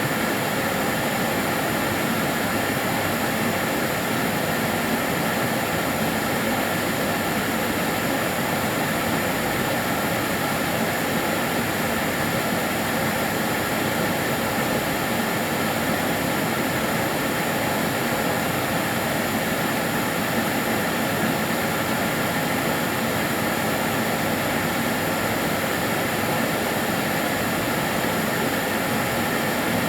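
Kärcher DS 6 Premium water-filter vacuum cleaner running steadily: an even rushing of air and motor with a faint high whine, never changing in level.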